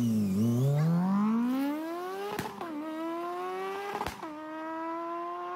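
Vehicle engine accelerating hard, its pitch climbing steadily and dropping twice, about two and a half and four seconds in, as it shifts up through the gears. It cuts off suddenly at the end.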